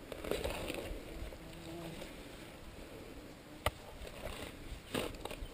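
A ZAZ Tavria's engine running quietly at idle while the car sits stuck in the mud, with rustling close by and one sharp click a little past the middle.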